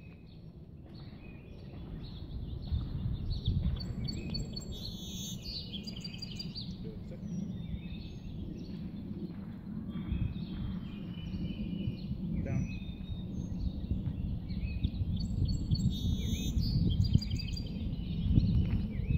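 Songbirds chirping in short patterned phrases, twice, over a steady low outdoor rumble.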